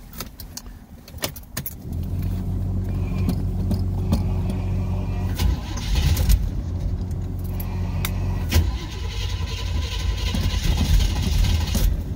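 Keys rattling and the key clicking in the ignition, then the 1979 Corvette's carbureted 350 small-block V8 starts about two seconds in and settles into a steady idle, with a few brief rises in level.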